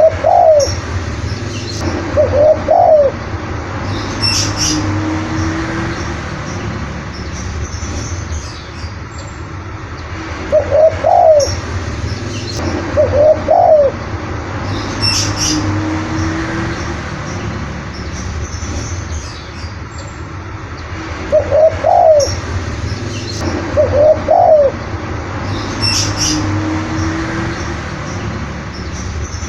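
Spotted dove cooing: a three-part phrase of two quick coos followed by a lower, drawn-out note, repeated three times about eleven seconds apart. Brief high chirps come in between the phrases over a steady background hiss.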